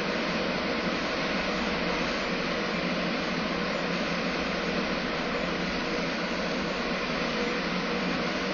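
Steady, even mechanical rushing drone with a faint hum, like a large car ferry's engines and ventilation fans running at the pier.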